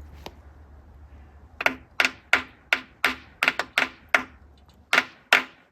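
Hammer blows on metal, about three ringing taps a second starting near two seconds in, knocking the oil pump loose from a D3400 diesel engine.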